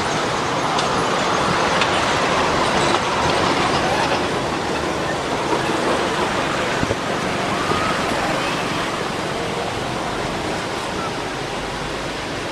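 Steady rushing outdoor background noise, with a few faint short chirps and clicks over it.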